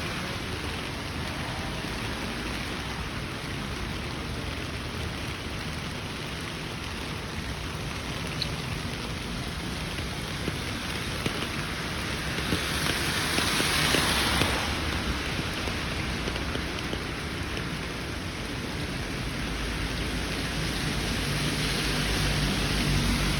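Steady rain falling on a city street, an even hiss throughout, with a louder swelling hiss a little past the middle and a low rumble building near the end.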